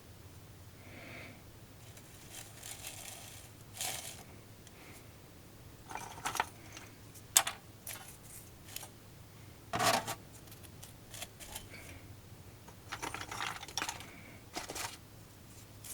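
Small hard objects being handled: scattered clicks and knocks with some rustling, the sharpest click about seven seconds in and a louder knock about ten seconds in.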